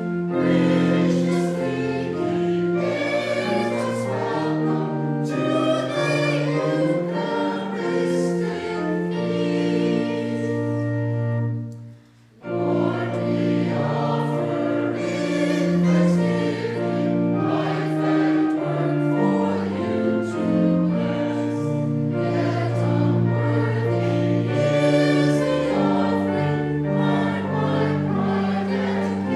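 A congregation singing a hymn in held, chordal phrases, with a brief pause about twelve seconds in before the next line or verse begins.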